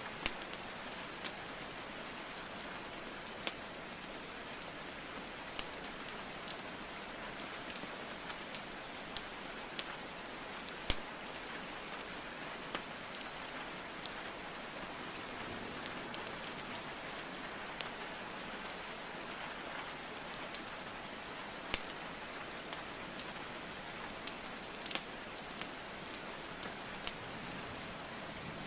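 Steady rain hiss with irregular sharp pops and crackles of burning wood logs in a fireplace, a few scattered through each few seconds, one louder pop about eleven seconds in.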